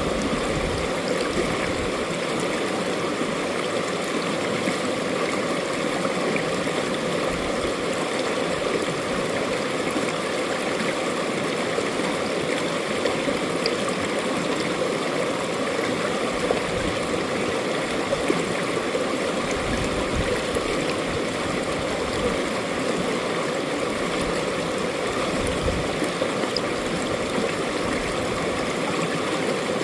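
A mountain valley stream running with a steady rushing, babbling flow.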